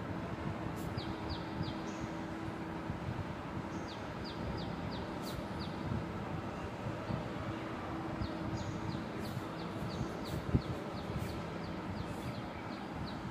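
A bird calling in the background: runs of short, high, down-slurred chirps, several to a second, coming in groups of a few notes, over steady background noise and a faint low hum.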